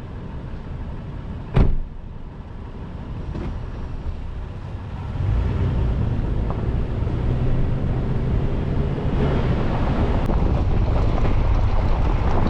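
Toyota 4Runner driving off-road: a steady low engine and drivetrain rumble that grows louder about five seconds in, with rougher tyre and road noise building near the end. A single sharp thump sounds about a second and a half in.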